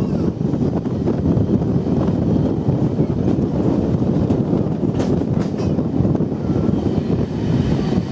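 Train running along the track: a steady rumble with wind noise on the microphone, and a few sharp clicks about five seconds in.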